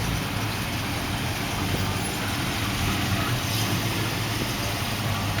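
Car engines running steadily as show cars drive slowly past: a continuous low rumble.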